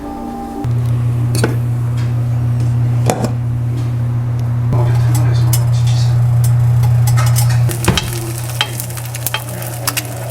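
Kitchen cooking sounds: sizzling and stirring with sharp utensil clicks, over a loud steady low hum that starts about a second in and drops in level near the end.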